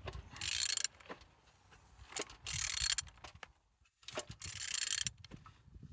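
Removed car engine's crankshaft being turned over by hand with a ratchet wrench: three bursts of ratchet clicking with scattered clicks and knocks between. The engine turns freely, a sign it is not seized.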